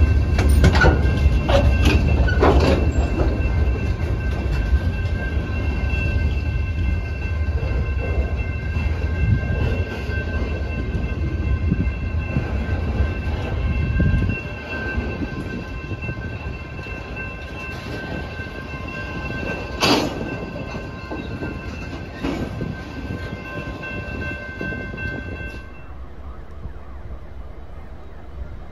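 Freight train of boxcars rolling through a grade crossing: a heavy low rumble with sharp clanks of wheels over the rails. The rumble weakens about halfway through. Steady high ringing tones run over it until near the end.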